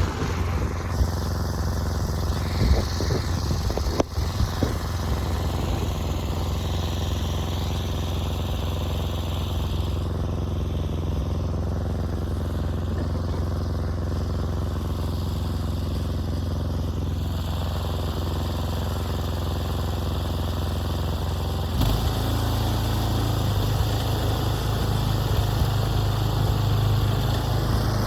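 An engine running steadily, with a few brief knocks in the first seconds; its note shifts about 22 seconds in, as if the engine changes speed or load.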